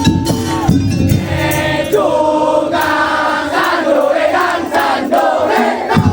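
Madurese daul music: a melody line that bends in pitch, sung or played, over drums and percussion. The low drums drop back for a few seconds in the middle and come in strongly again at the end.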